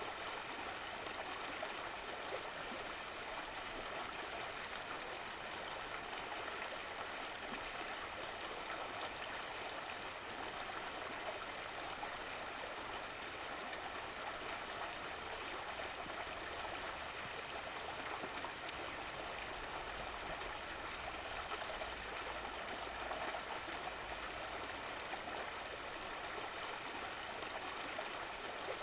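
Running water of a stream flowing steadily, an even rushing and trickling without pauses.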